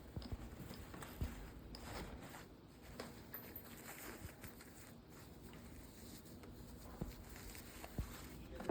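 Faint handling noises: scattered light taps and rustles as ties and shims are fitted around an old book to press its leather down.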